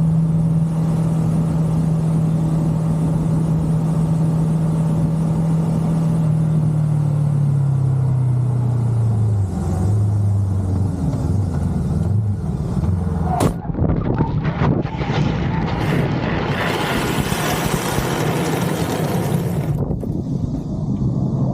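Motorcycle engine running steadily, then dropping in pitch as the bike slows, followed about thirteen seconds in by a sharp bang, the impact of the motorcycle being rear-ended. A loud rushing noise follows for a few seconds.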